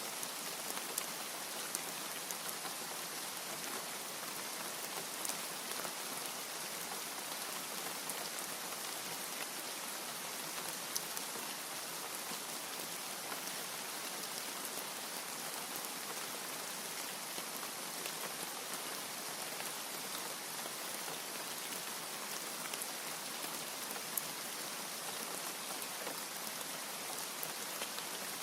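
Steady rain: an even hiss with many small, sharp drop taps scattered through it.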